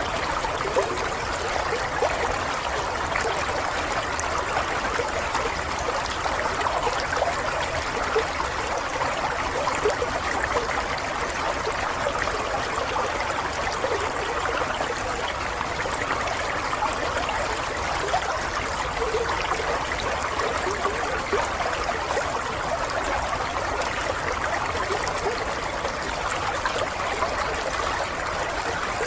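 Running water, a small stream or brook trickling and babbling steadily.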